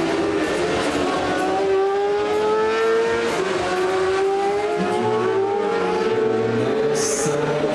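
Superbike racing motorcycles at full throttle, accelerating through the gears: the engine pitch climbs, drops at an upshift about three and a half seconds in, then climbs again, with more than one bike heard together.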